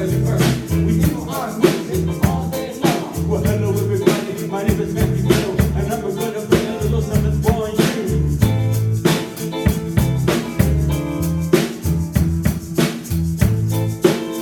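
Live band playing a rock song: drum kit keeping a steady beat, bass notes and guitar, with a singer.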